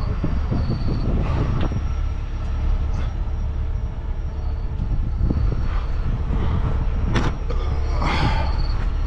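A large vehicle's engine running steadily at idle, a constant low rumble, with a few short metallic clicks and knocks about five, seven and eight seconds in.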